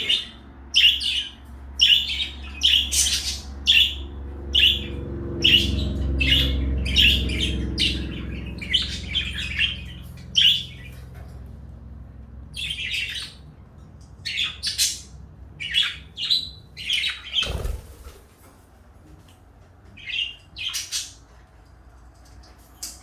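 Pet parakeets chirping in short, sharp calls about twice a second, thinning out to scattered chirps after ten seconds or so. A low rumble runs under the first half, and there is a brief thump toward the end.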